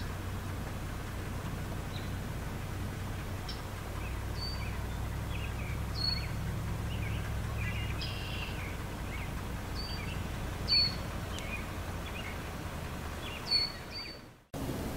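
Small birds chirping and calling in short, scattered high notes over a steady low hum, with two louder calls in the second half. The sound cuts off abruptly near the end.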